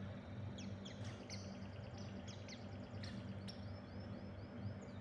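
A white-eye (pleci dakun) giving faint, high, short chirps, with a quick run of repeated chirps about three and a half seconds in.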